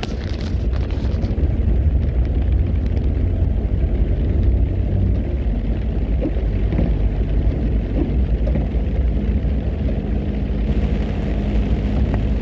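Vehicle driving on a road: a steady low rumble of engine and road noise, with a faint steady engine hum.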